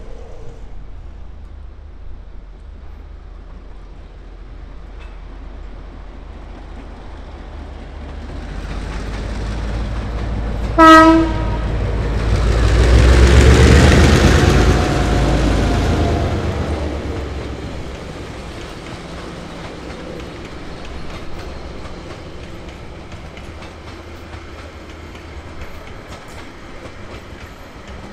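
A pair of DA-class diesel-electric locomotives approach and pass hauling a train of passenger carriages. The engine noise builds, and one short horn blast sounds about eleven seconds in, just before the locomotives go by. The carriages then roll past with their wheels clattering over the rails, slowly fading.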